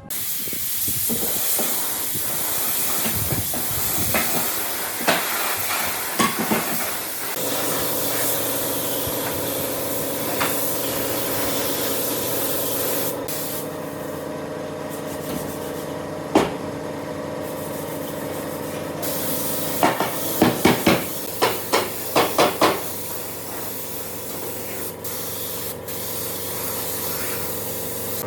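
A steady spraying hiss, joined after about seven seconds by a steady machine hum, with a quick run of sharp knocks about twenty seconds in.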